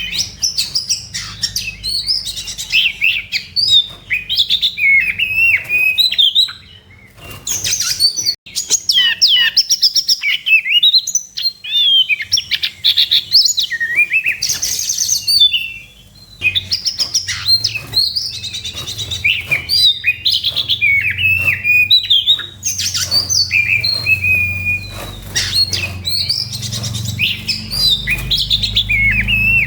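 Oriental magpie-robin (kacer) singing a fast, varied stream of whistles, trills and chirps: its agitated fighting song. The song breaks off briefly twice, about a quarter of the way in and about halfway.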